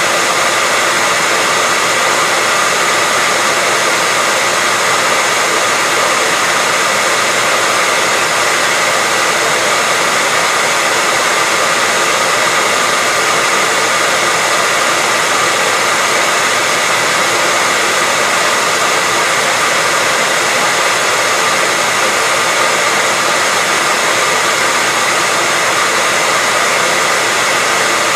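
Hair dryer running steadily: an even rushing of air with a faint steady whine, unchanging throughout.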